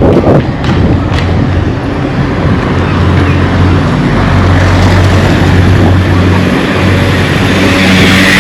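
Motor vehicle engine running close by as a steady low hum, with the rush of a vehicle passing close and building near the end.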